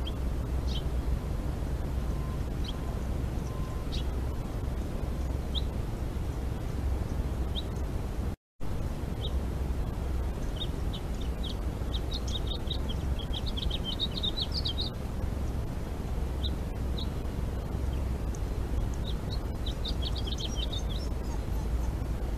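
Small birds chirping, with scattered single chirps at first and bursts of rapid twittering later, over a steady low background noise. The sound drops out completely for a moment about eight seconds in.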